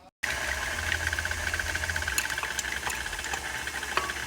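Electric kitchen mixer running steadily with a fast, even motor whir, with a few light clicks near the end.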